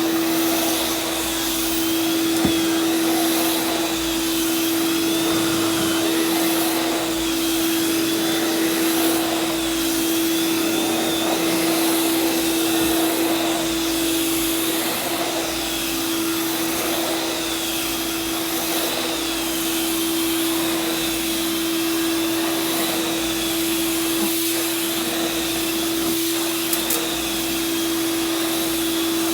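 Heavy-duty two-stage shop vac with HEPA filter and a powered beater-bar head running steadily while vacuuming carpet: a constant motor hum under airflow noise, with a high whine that wavers up and down every second or two.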